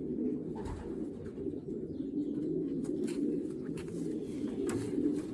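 Racing pigeons cooing continuously, a dense low murmur of many birds, with a few light clicks in the second half.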